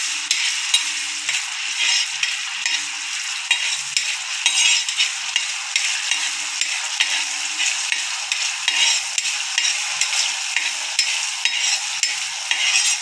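Ginger-garlic paste sizzling in hot oil on a tawa, with a spatula scraping and tapping the pan in short, irregular strokes as it is stirred.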